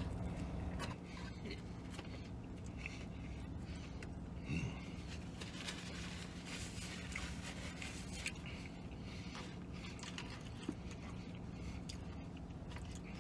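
A man biting into and chewing a McDonald's McRib sandwich, with soft mouth sounds and small clicks, and paper wrapper rustling around the middle. A steady low hum runs underneath.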